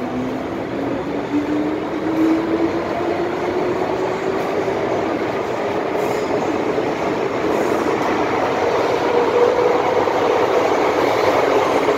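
MTR M-Train electric multiple unit accelerating: a traction motor whine rises steadily in pitch over the running noise of wheels on rail, growing slowly louder.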